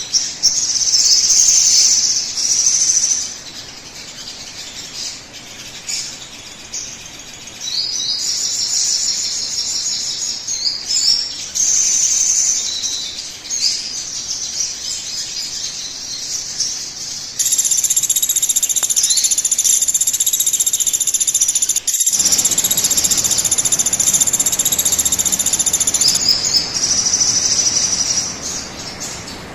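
Sogon bird song from a lure recording: bursts of high chirps and trills, then a long stretch of dense, continuous song in the second half.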